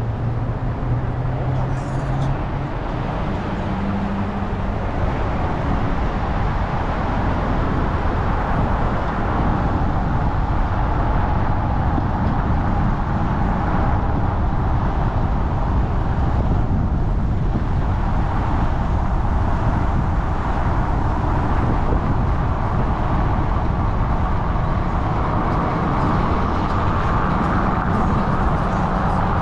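Steady vehicle rumble and road noise.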